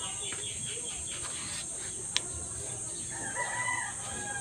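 A rooster crowing once, about three seconds in, for about a second. Under it runs a steady high hiss. A single sharp click a couple of seconds in is the loudest moment.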